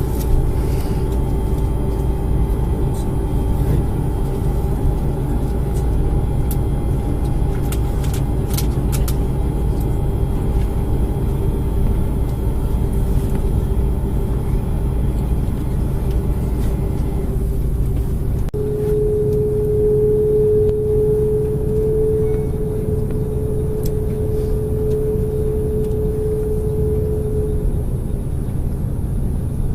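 Steady low rumble and hum of an Airbus A330-300's engines and airframe, heard from inside the cabin while the airliner taxis after landing. About eighteen seconds in, the deepest rumble drops away and a steady single-pitched hum takes over for about nine seconds.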